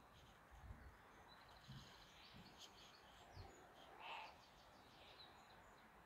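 Faint bird chirps and twitters against a quiet outdoor background, with one brief, slightly louder call about four seconds in.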